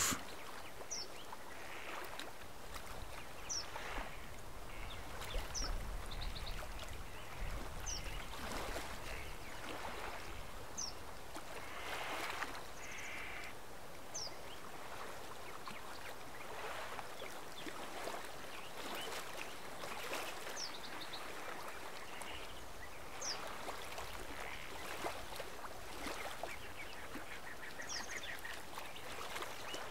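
Quiet bird calls: a short, high, falling chirp repeated every two to three seconds, with a couple of harsher, lower calls around the middle, over a faint steady hiss.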